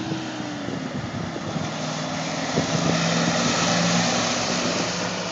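A motor vehicle's engine and road noise, growing louder to a peak about four seconds in and then fading as it passes.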